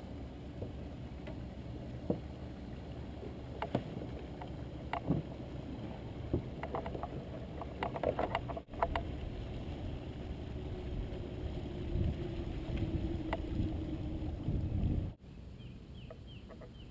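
Low rumble of wind and water on the microphone aboard a fishing kayak, with scattered knocks and clicks. The sound drops out sharply twice.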